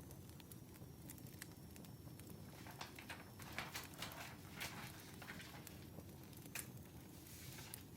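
Wood fire crackling quietly, with irregular sharp pops and snaps over a low steady rumble; the pops bunch together from about a third of the way in to past the middle.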